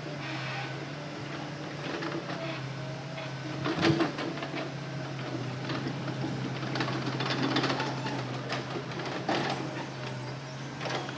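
Hitachi Zaxis hydraulic excavator's diesel engine running steadily, with scattered knocks and clatter, the loudest about four seconds in.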